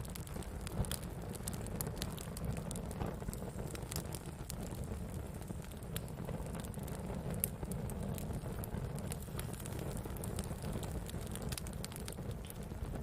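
Wood campfire burning, crackling with frequent small sharp pops over a steady low rumble of the flames.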